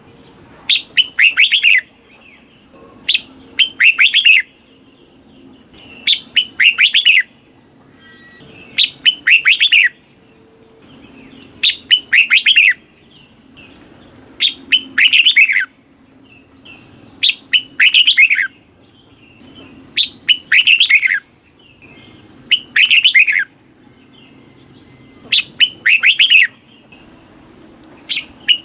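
Red-whiskered bulbul singing: short, loud phrases of quick falling chirpy notes, repeated about every two and a half to three seconds. A recorded song of the kind played to caged bulbuls to get them singing.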